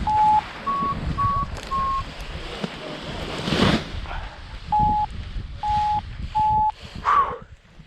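A paragliding variometer beeping in short steady tones: four beeps, the later three a little higher, then three lower beeps a few seconds later. Wind rushes on the microphone, with a loud gust of noise about three and a half seconds in.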